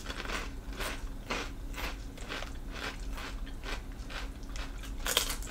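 Crunchy puffed pork rinds being chewed with the mouth, a string of crisp crunches about two a second.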